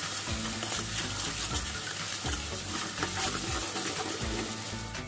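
A paste of ground garlic and shallot with sauces sizzles in margarine in a metal wok, while a spatula stirs it with repeated scrapes against the pan.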